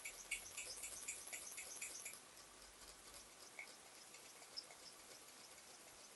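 Small model steam engine with a Mamod boiler idling under steam, giving a quick, light, ticking beat of about four a second. The beat stops about two seconds in, leaving a few faint scattered ticks.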